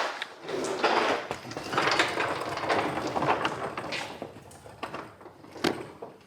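Irregular scraping and clattering from handling in a garage workspace, loudest at first and fading, with one sharp click near the end.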